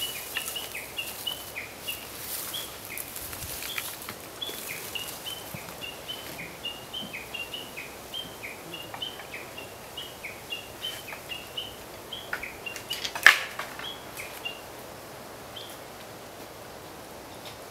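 A small bird calling in a rapid run of short, high chirps, several a second, which stop near the end. A single sharp snap about thirteen seconds in is the loudest sound.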